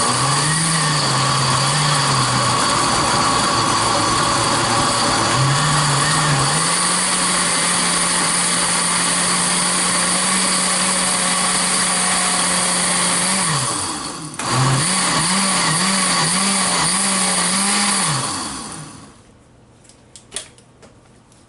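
Electric blender running on a load of peppers, onions, orange juice and spices to make jerk seasoning paste. The motor pitch wavers at first, then holds steady, stops briefly about two-thirds of the way through, runs again with a wobbling pitch, and winds down near the end. A few light knocks follow.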